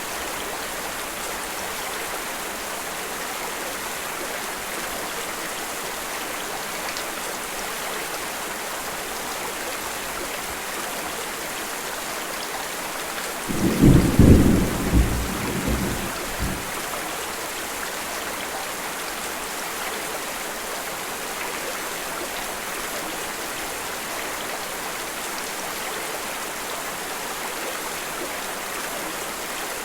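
Steady rain, with one roll of thunder about halfway through that swells in several peaks and dies away after about three seconds.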